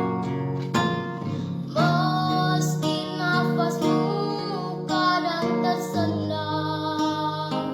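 Singing with acoustic guitar accompaniment: guitar notes throughout, and a high voice entering about two seconds in with a wavering, held melody.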